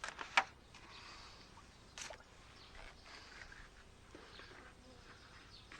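A few light clicks and knocks from a wooden hive lid being handled and fitted onto a small beehive box, the loudest about half a second in and another about two seconds in, then only faint ticks over quiet outdoor background.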